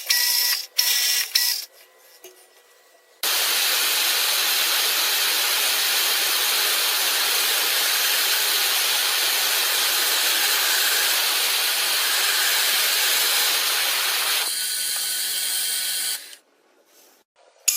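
A few sharp mechanical clicks, then after about three seconds a loud, steady hiss like a jet of air or spray. It eases slightly near the end and then cuts off.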